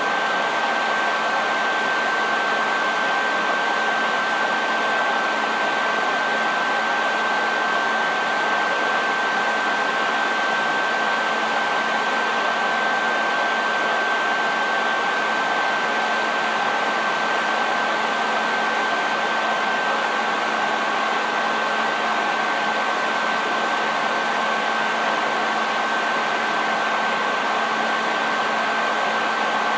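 Hair dryer running continuously at a constant speed: a steady rush of blown air with a steady whine from its motor and fan.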